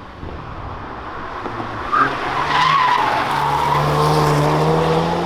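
Hyundai Veloster N's turbocharged 2.0-litre four-cylinder pulling at steady revs over road noise, with a brief wavering tyre squeal about two and a half seconds in.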